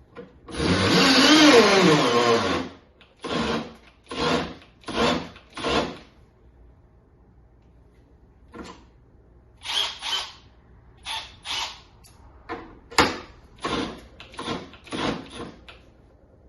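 Milwaukee M12 FUEL cordless drill driving under load: one run of about two seconds whose pitch falls as the motor slows, then a series of short trigger bursts.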